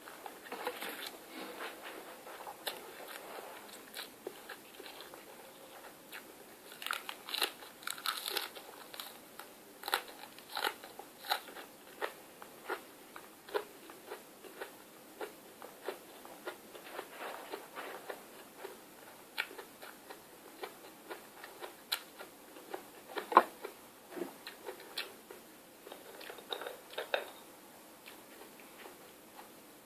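Close-up eating sounds: irregular crunchy bites and chewing, many short crunches with a single loudest one a little past two-thirds of the way through.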